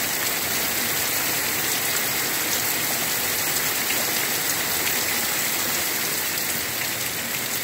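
Heavy downpour: torrential rain falling steadily in a dense, even hiss of water hitting surfaces.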